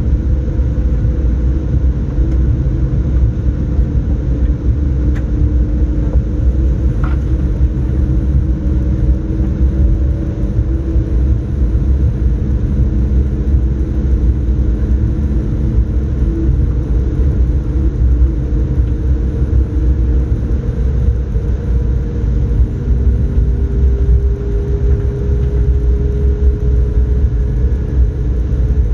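Airbus A220-300 cabin noise from its Pratt & Whitney geared turbofans and the airframe: a loud, steady low rumble with engine tones that drift slowly in pitch, one rising a little in the second half.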